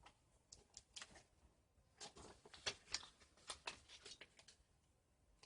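Faint clicks and rustling from a plastic disc case and its paper cover sleeve being handled, in irregular short bursts.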